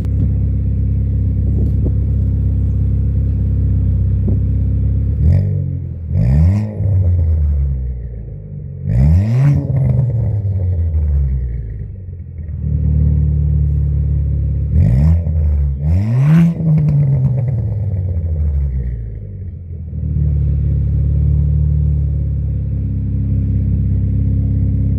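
2019 Ford Fiesta ST's turbocharged 1.6 L four-cylinder, breathing through an MBRP cat-back exhaust, idling while still warming up from a cold start. It is blipped in a few quick revs, each rising and falling, in one group around six to nine seconds in and another around fifteen seconds in, and drops back to idle between and after them.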